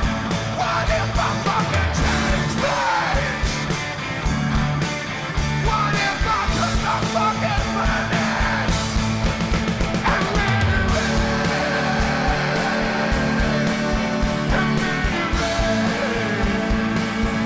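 Rock band playing a passage without sung lyrics, with melodic lines gliding up and down in pitch over a steady beat.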